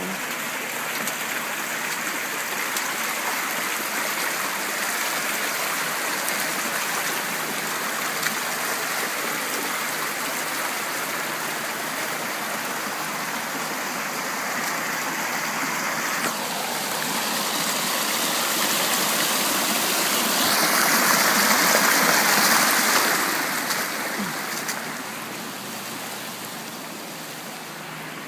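Rushing floodwater, a steady noisy flow that swells louder about two-thirds of the way through and then eases off.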